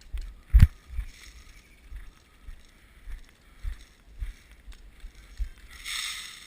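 Dull knocks and rustling from movement against a body-worn camera: one sharp knock about half a second in, fainter thumps spaced roughly half a second apart, and a brief scuffing rustle near the end.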